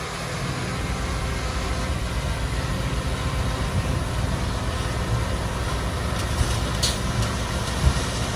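Heavy diesel engine of earthmoving machinery running steadily with a low rumble. There is a short high squeak about seven seconds in and a thump near the end.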